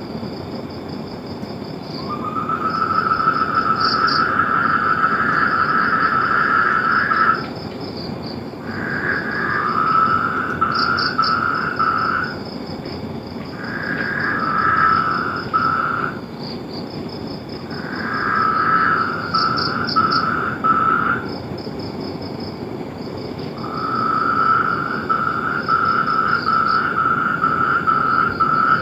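Outdoor animal chorus: rapidly pulsed calls come in bouts of a few seconds with short pauses between, over a continuous higher-pitched pulsing trill.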